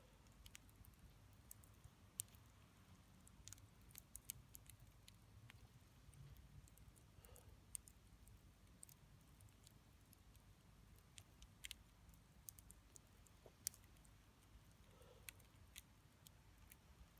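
Wood bonfire crackling softly, with sharp pops and snaps at irregular moments. Two of them, about two seconds in and near the end, are louder than the rest.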